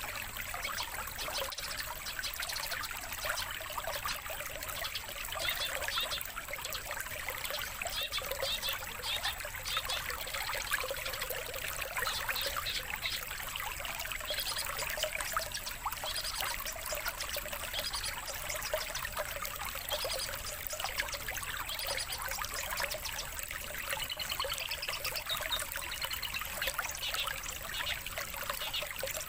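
Trickling, running water like a small stream, steady throughout, with many short, high songbird chirps and calls laid over it.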